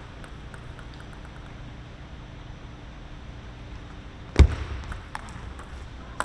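Sports-hall ambience with faint scattered ticks, and one loud thud about four seconds in, followed by a small click near the end.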